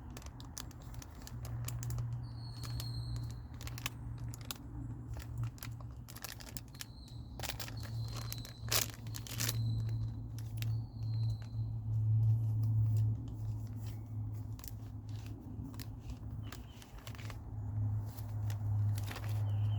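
Packaging crinkling and tearing with scattered sharp clicks, over a steady low hum.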